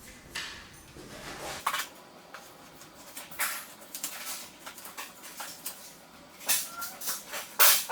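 Scattered short knocks, clicks and scrapes of wood pieces being fitted into screw holes in a door jamb, the loudest near the end.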